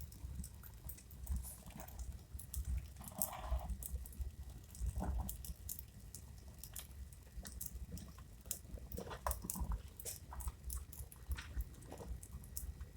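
Wood fire crackling, with irregular sharp pops and snaps over a low rumble of the burning.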